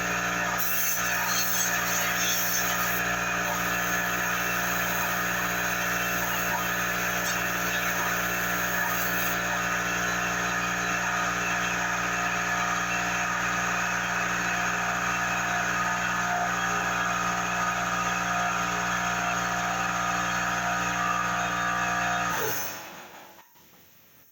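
A steady-running electric shop machine, a motor with a constant hum and a rush of air noise, used for cleaning out engine parts; it is switched off about 22 seconds in and winds down to quiet.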